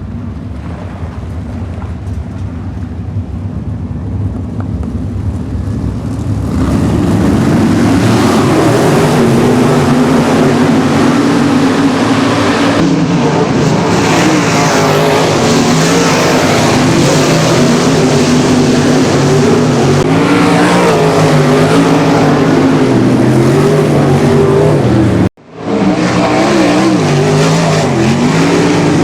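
Several sprint car V8 engines running together around the track, their pitches weaving up and down as they circle. The sound builds over the first six seconds to a steady loud din, breaks off sharply for a moment about 25 seconds in, then comes straight back.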